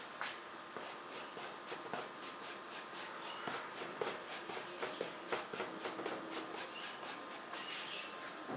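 Paintbrush working on paper in a rapid series of short, scratchy dabs and strokes, about four or five a second.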